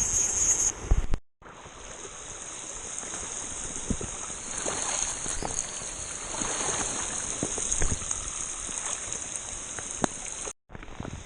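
Steady rushing water noise with a constant high hiss above it, cutting out briefly about a second in and again near the end.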